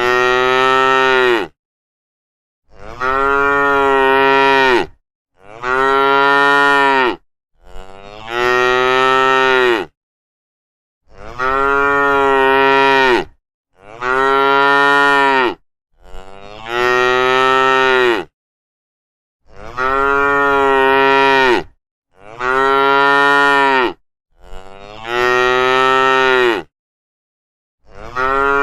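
Cattle mooing over and over: about eleven long, loud moos, each lasting about two seconds, with short gaps of complete silence between them.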